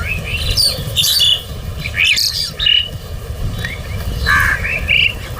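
A flock of crows calling, with many short, overlapping harsh calls and chirps following one another, over a steady low rumble.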